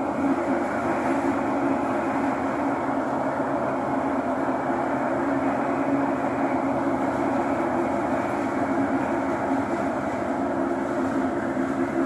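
Thomson-East Coast Line metro train running steadily through a tunnel, heard from inside the carriage: an even rumble of wheels and motors with a steady low hum.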